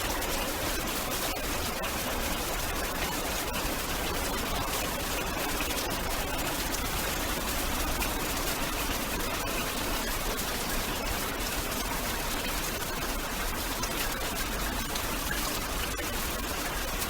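Steady rain: a constant even hiss with a fine patter of drops.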